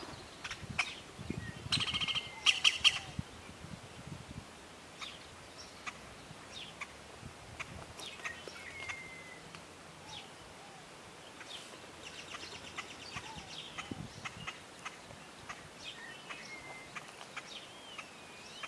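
Birds chirping and calling outdoors, short scattered chirps throughout, with a louder burst of rapid chirping about two seconds in.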